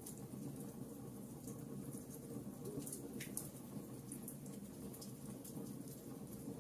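Wood fire burning in a fireplace, with scattered sharp crackles and pops over the steady low rumble of the flames.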